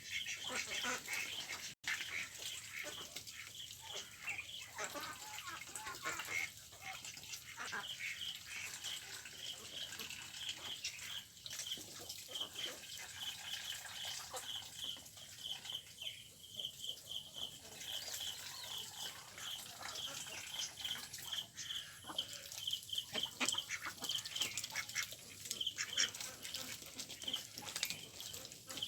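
Ducks quacking on and off, with a steady, high-pitched rhythmic chirping behind them.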